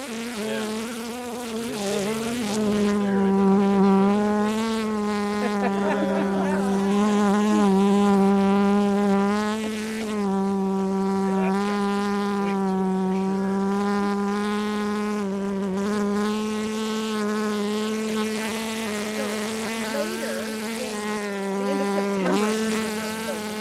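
Honeybee buzzing close to the microphone: one steady, unbroken buzz whose pitch wavers slightly.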